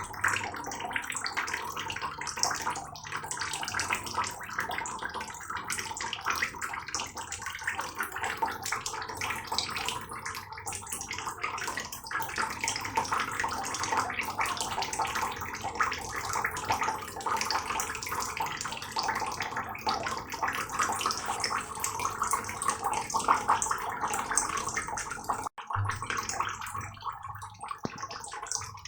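Heavy rain falling steadily, a dense patter of splashing drops, broken by a split-second dropout near the end.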